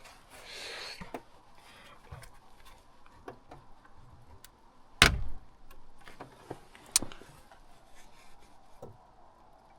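Wrench straining on a tight, seized bolt in a truck's engine bay: quiet scraping and scattered small clicks, with two sharp metallic clicks about five and seven seconds in as the fastener works loose.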